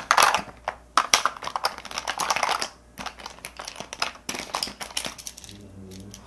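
Quick, irregular small clicks and taps of plastic makeup cases and tools being handled and rummaged through, with soft rustling in between.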